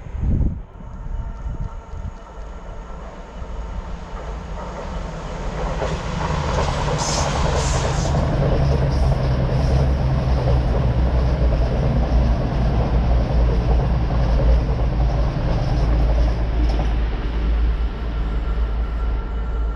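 Diesel-hauled freight train passing through the station. The heavy low engine note builds over a few seconds and stays loud for most of the passage, with wagons rattling over the rail joints, then eases a little near the end.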